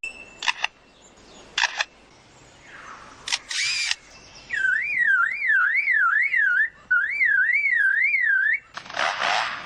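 Lyrebird mimicking a camera: a few sharp shutter-like clicks. Then it gives an electronic alarm-like whistle that swings up and down in pitch about twice a second, in two runs. A short burst of noisy rasping comes near the end.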